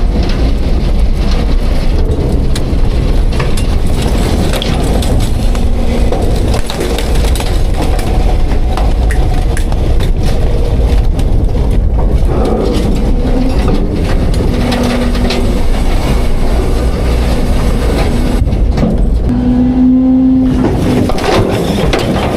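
Autocar-Heil Half/Pack Freedom front-load garbage truck packing its load: the engine runs hard under hydraulic load while refuse cracks and crunches as the packer blade compacts it, with a steady hydraulic whine in the latter half.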